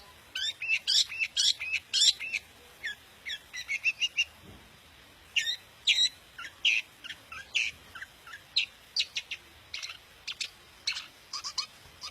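Long-tailed shrike singing a rapid, varied song of short chirps and chattering notes: a dense run for the first two seconds, a short lull, then more quick chirps and sharp ticks.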